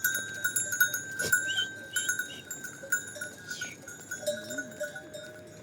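Bells on a flock of sheep or goats clinking irregularly as the animals move, fading toward the end.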